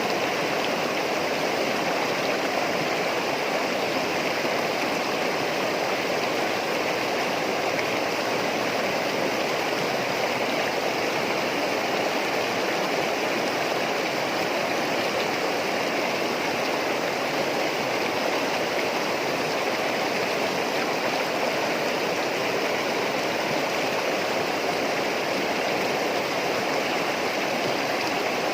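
Water flowing and splashing steadily over rocks, a continuous stream-like rush with no changes.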